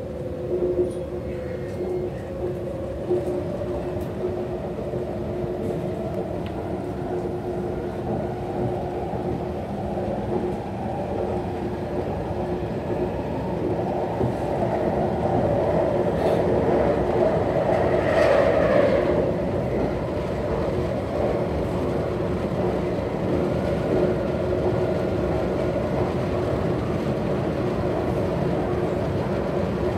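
Cabin noise of a West Rail Line electric train running at speed, heard inside the carriage: a steady rumble with a constant hum, swelling louder for a few seconds past the middle before easing back.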